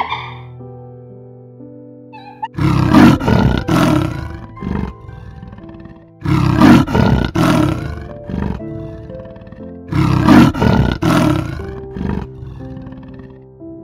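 Leopard giving three loud calls, each about two seconds long and a few seconds apart, over soft background music.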